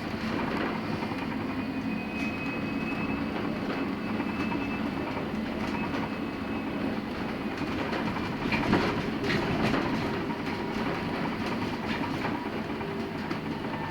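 Inside a LiAZ-6274 electric bus on the move: a steady electric drive whine over road noise, with rattles and knocks from the body, busiest about nine seconds in.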